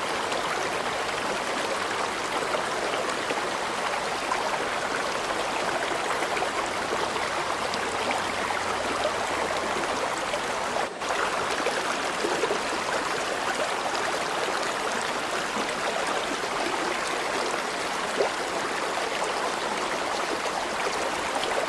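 River water flowing and babbling steadily, with one brief dip in level about halfway through.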